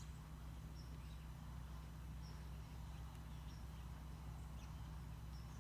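Faint, scattered short chirps from a large roosting flock of birds, over a steady low hum.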